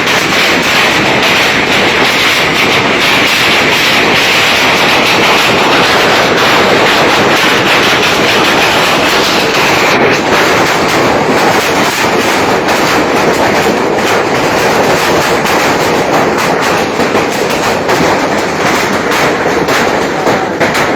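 Heavy rain falling in a steady downpour, a dense loud hiss with distinct sharp patters of drops becoming more frequent in the second half.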